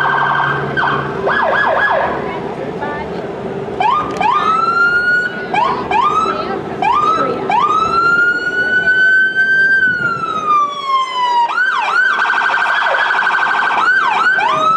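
Emergency-vehicle electronic siren cycling through its tones: a fast warble, a run of short rising whoops, one long rising wail that falls away, then fast warbling again near the end. A steady low tone drones underneath.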